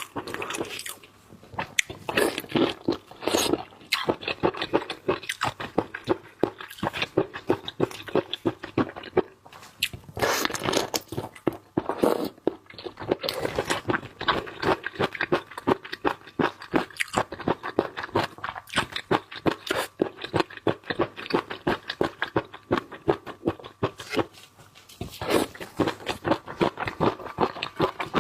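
Close-miked eating sounds of seafood: wet chewing, crunching and lip smacking in quick succession.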